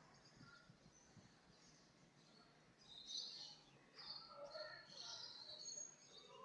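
Birds chirping and twittering in short high-pitched calls, beginning about three seconds in, over a faint background hiss.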